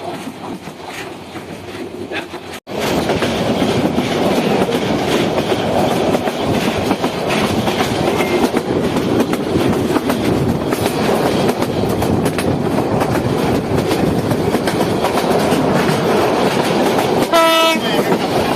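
Moving passenger train: the steady rumble and clatter of the carriage wheels on the rails, which grows louder after a sudden break a couple of seconds in. Near the end comes one short horn blast.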